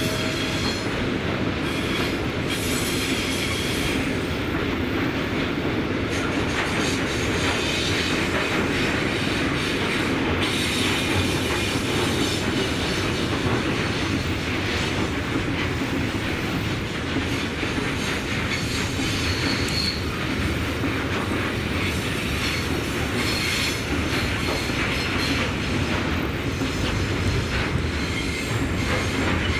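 A train running past without a break, its wagons' wheels clattering on the rails, with brief high wheel squeals at times.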